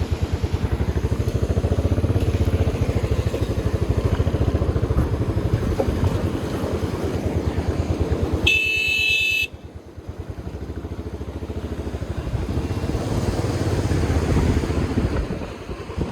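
A vehicle engine running with a rapid, even low pulsing. A horn sounds for about a second just past the middle. The engine sound then drops away suddenly and builds back up.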